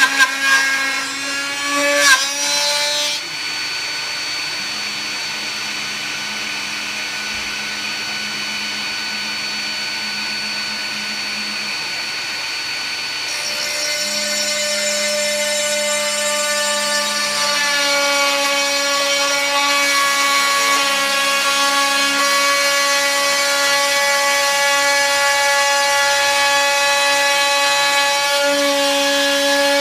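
TTA 3020 desktop CNC router spindle milling wood flooring: a steady high whine with cutting noise, getting louder from about halfway through.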